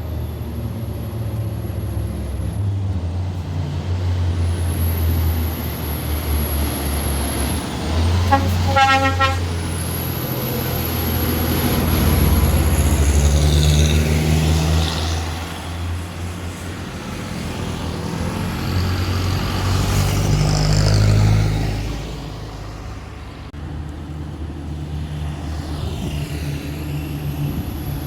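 Heavy diesel engines of dump trucks and loading machinery running with a steady low drone, swelling twice as they rev under load. A vehicle horn gives one short blast about nine seconds in.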